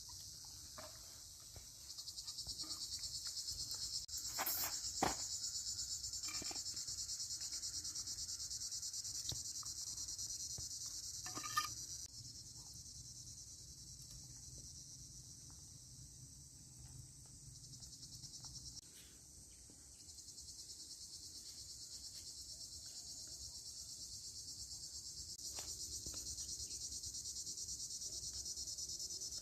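Crickets chirping in a steady, high-pitched chorus that fades somewhat for a few seconds in the middle and then comes back. A few sharp knocks stand out: two about five seconds in and one near twelve seconds.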